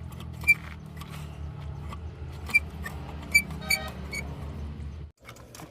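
Sharp metal-on-metal clinks, five of them, each with a short ring, over a low steady hum that cuts off suddenly near the end.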